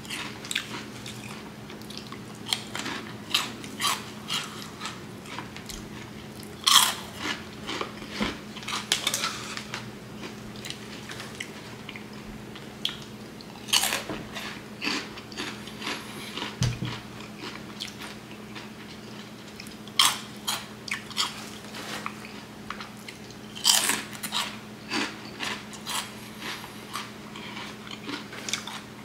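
Mouth crunching and chewing Flamin' Hot Cheetos: a loud crisp bite every few seconds, each followed by a run of smaller crunchy chews. A faint steady low hum runs underneath.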